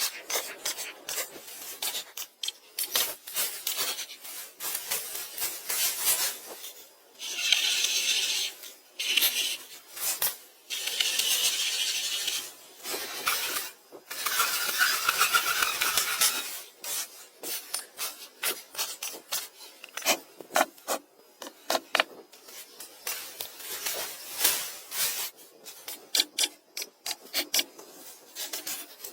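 Wood being worked with a hand tool: many short clicks and knocks, with three longer scraping strokes of a second or two each in the middle.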